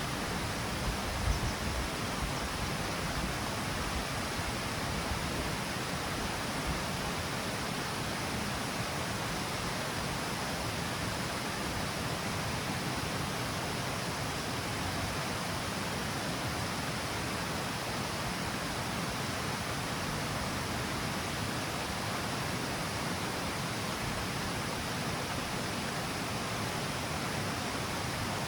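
River water falling steadily down the stepped cascade of a small river waterfall, a constant, even rush of water.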